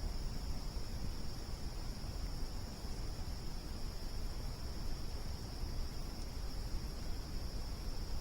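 Crickets trilling in a steady, unbroken chorus, with a low rumble underneath.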